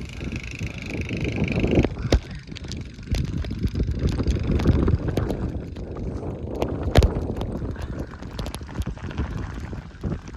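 Wind buffeting the microphone in a heavy snowstorm, with scattered crunches and knocks of footsteps trudging through deep snow. A steady higher hum stops about two seconds in.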